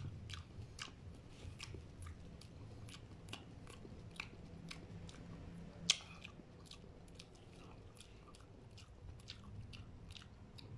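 A person chewing a mouthful of nopal (prickly pear cactus pad): faint, irregular mouth clicks and small crunches, a few a second, with one louder click about six seconds in.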